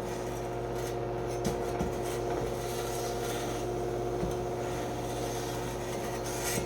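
Electric knife sharpener's motor running with a steady hum while a knife blade is drawn through its grinding slot, giving a few brief rasping strokes.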